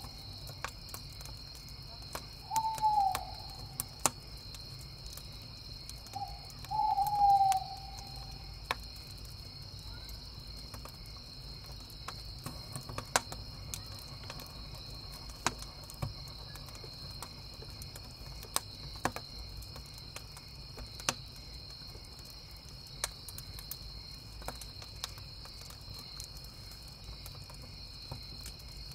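An owl hooting twice in the first several seconds, each a short call that falls in pitch, over steady cricket chirping and the crackle of a wood fire with scattered sharp pops.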